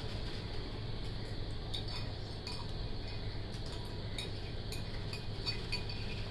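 Scattered faint clinks of cutlery against dishes as haleem is eaten, over a steady low hum.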